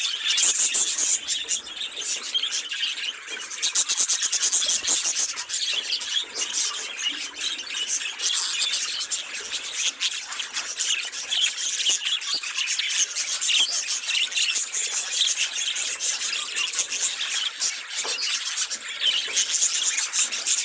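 Budgerigars chattering and warbling without a break: a dense, fast stream of high-pitched chirps, clicks and scratchy notes.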